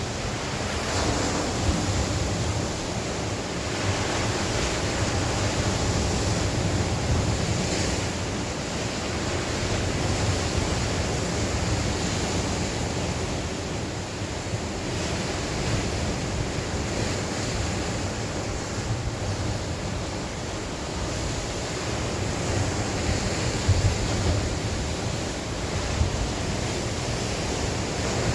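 Sea waves breaking and washing on the shore in continuous surf, swelling and easing every few seconds, with wind buffeting the microphone as a low rumble.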